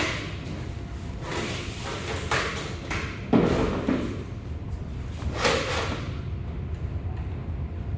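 Pull-out microwave shelf sliding on its runners and knocking against its stops, several times, with the loudest thud about three and a half seconds in.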